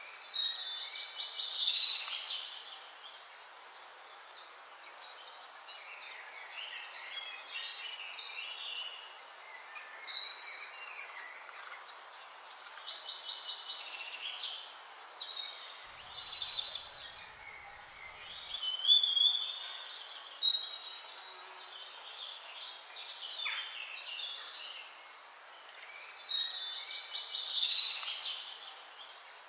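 Songbirds singing in short, bright phrases every few seconds over a steady background hiss; the loudest phrases come about a second in, near ten seconds and near the end.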